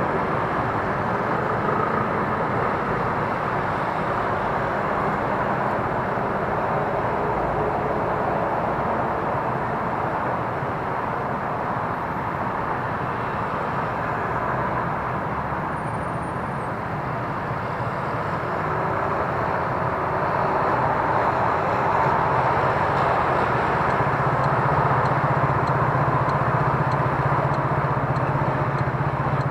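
Street traffic heard while riding an electric scooter: a steady rushing noise of wind and road, with a low steady hum joining about three-quarters of the way through.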